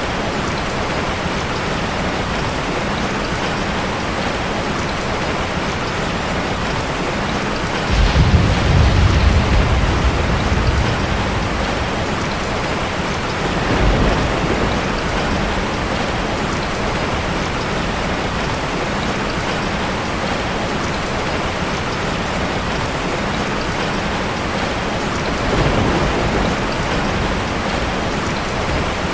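Steady heavy rain, with rumbles of thunder: a loud one that starts suddenly about eight seconds in and rolls on for a few seconds, then two shorter, fainter ones later.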